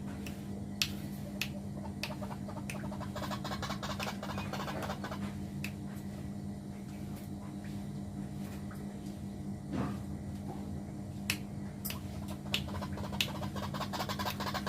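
Birds moving about inside a small aviary: scattered sharp clicks and taps, a few seconds apart, over a steady low hum.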